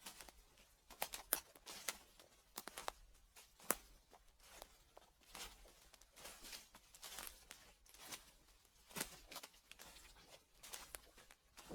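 Footsteps crunching through dry fallen leaves: faint, uneven crackles of brittle leaves with each slow step.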